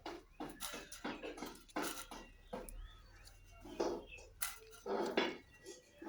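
Pet parrot making a rapid string of short clicks and chattering sounds, with a few louder squawk-like calls about four and five seconds in.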